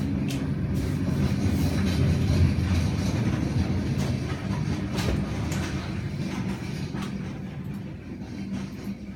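A steady, loud low rumble of a running motor or engine, with a few sharp clicks over it.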